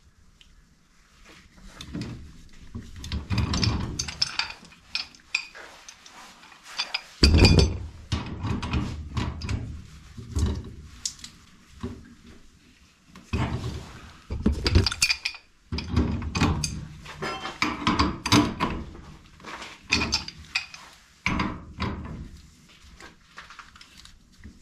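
Metal parts and tools being handled: irregular clanks, clinks and thumps, with the loudest thump about seven seconds in.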